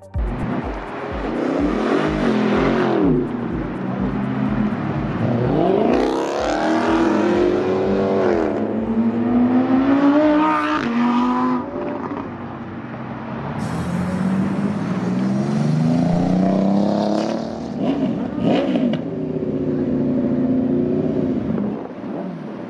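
Car engines revving over and over, the pitch climbing and dropping back in several long pulls, with lower running between the revs.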